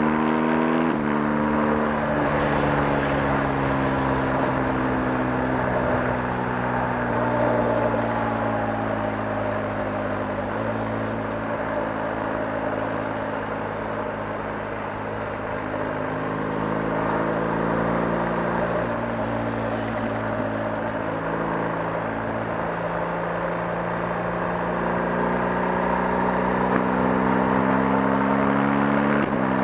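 BMW R 1250 GS 1254 cc boxer-twin engine running under way. Its pitch falls gradually through the first half and dips quietest around the middle, then climbs again over the last several seconds as the bike accelerates.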